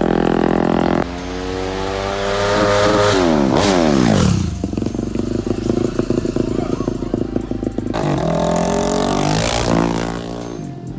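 Dirt bike engines: one held at high revs, then climbing in pitch as it accelerates. About three and a half seconds in the pitch falls steeply as a bike passes by, followed by rougher lower running, another climb in revs about eight seconds in, and fading near the end.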